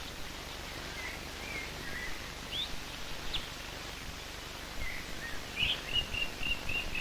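Small birds chirping in woodland, with scattered short calls and then a quick run of short repeated notes over the last second and a half, against a steady hiss. A few faint low knocks sound under the calls in the second half.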